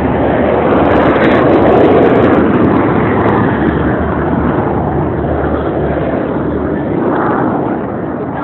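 Jet noise from Blue Angels F/A-18 Hornets' twin turbofan engines as the jets make a pass, loudest about a second or two in and then slowly fading.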